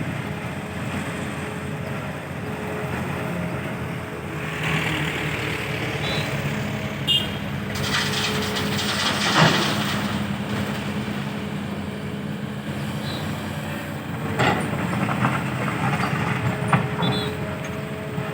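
Diesel engines of an excavator and a dump truck running steadily while the excavator works, with a few metallic clanks and short squeaks from the machinery; the loudest clank comes about halfway through.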